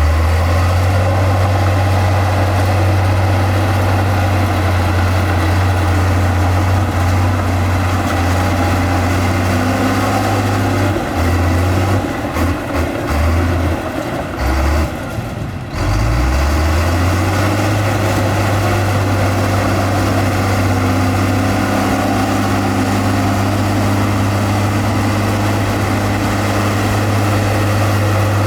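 Heavy diesel earthmoving machinery running with a steady low engine drone. About halfway through it wavers and drops out briefly several times, then settles back to a steady run.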